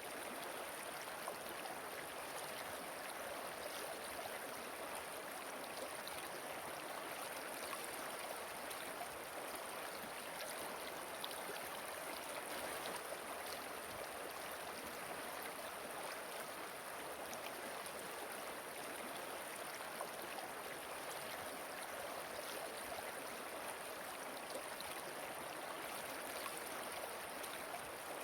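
Steady rushing of a waterfall and flowing river water, an even, unbroken wash of sound.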